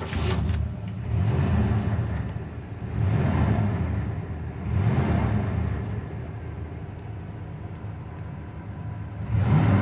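Pontiac Trans Am V8 engine running at idle and being revved several times, each rev swelling and falling back.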